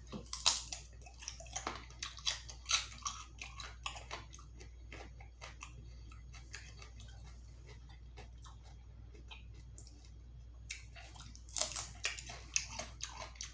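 Close-miked mouth sounds of a person eating chicken wings: wet chewing and biting with short sharp crackles, busiest in the first few seconds and again near the end, over a steady low hum.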